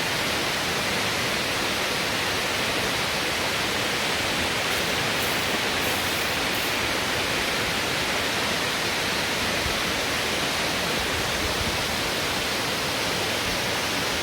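Waterfall: the steady rush of falling water, an even hiss that does not let up.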